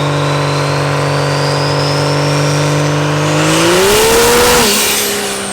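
High-horsepower diesel race truck engine at full throttle: a steady drone with a turbo whistle climbing in pitch. About three and a half seconds in, the revs rise sharply under a loud rush. They drop back just before the end, and the turbo whine falls away.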